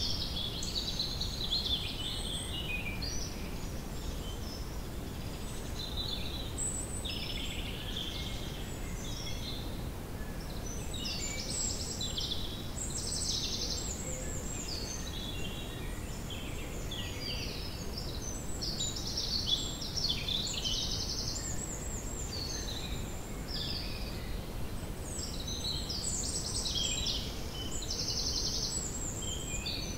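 Wild birds singing, many short high songs and rapid trills coming one after another, over a steady low background noise.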